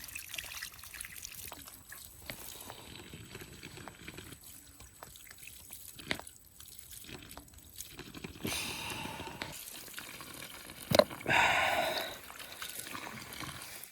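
Water trickling and dripping while something is washed by hand in ice-cold water, with many small knocks. A sharp click about eleven seconds in, then a short, louder rush of noise.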